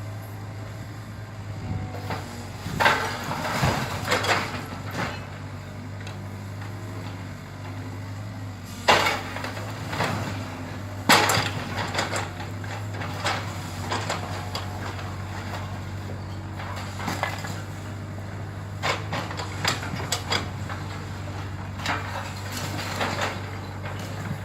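Building demolition: an engine hums steadily underneath while timber and debris crack and crash in irregular bursts. The loudest crashes come about 9 and 11 seconds in.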